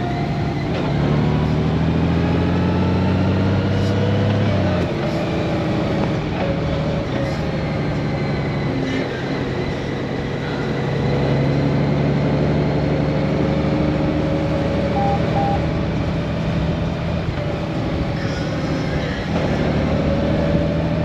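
Honda Gold Wing's flat-six engine under way, climbing in pitch as the bike accelerates. The pitch drops suddenly about five seconds in as the dual-clutch gearbox shifts up, then holds fairly steady under a constant rush of wind noise.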